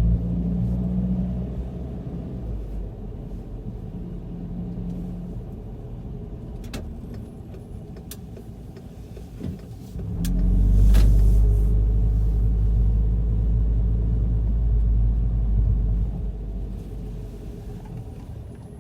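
VW Golf GTI mk5 running with a low engine rumble that swells about ten seconds in and eases off near the end, with a few sharp knocks scattered through it. The knocks fit the clunk the owner is chasing, which persists after new engine and transmission mounts, stabilizer links, suspension, strut mounts and CV joint.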